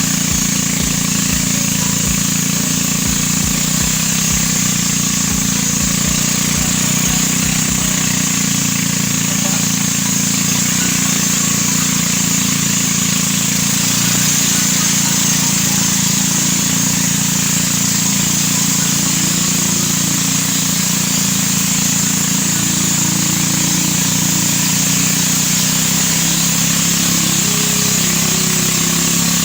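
A vehicle engine running steadily at cruising speed, with a constant hiss of road and air noise and some low rumbling bumps in the first several seconds.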